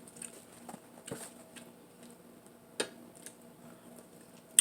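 A few small clicks and taps from eating and handling food at the table: one about a second in, one near three seconds, and a sharper click at the end, over a faint steady hum.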